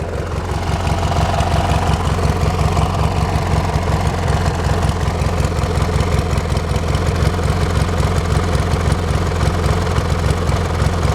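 Hechinger (MTD) lawn tractor engine idling with an even, rapid beat while its carburettor's idle mixture is being adjusted to make it run better.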